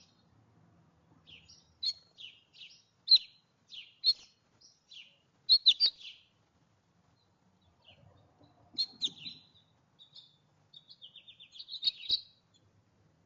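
Small songbirds at a backyard feeder chirping in short, high, scattered calls, with a quick trill of rapidly repeated notes near the end and a sharp tap or two.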